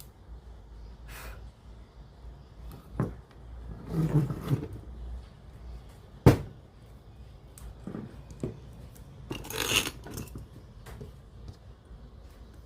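Handling sounds on a workbench during a cassette-player repair: scattered clicks and knocks, a rustling stretch about four seconds in, one sharp knock about six seconds in and a brief scrape near ten seconds.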